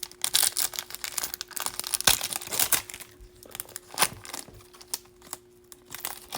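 Wrapper of a Bowman baseball card pack being torn open and crinkled: a dense stretch of crinkling for about the first three seconds, then a few separate crackles and clicks.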